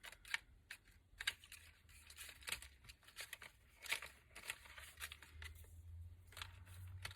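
Faint paper rustling and scattered light taps and clicks as cut-out paper pieces are sorted and shuffled on a desk.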